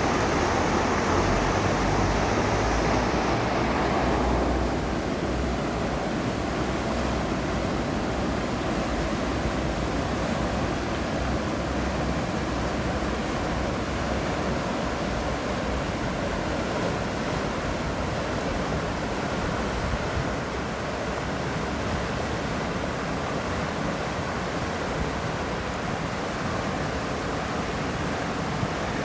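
The Ziller, an Alpine mountain river, flowing with a steady rush of water. It is louder and brighter for the first four seconds or so, then settles a little softer.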